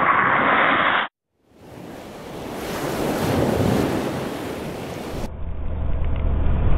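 Wind rushing over the microphone. It cuts off to silence just after a second in, then comes back as a rushing noise that swells and fades. Near the end a steady low hum of a vehicle engine joins it.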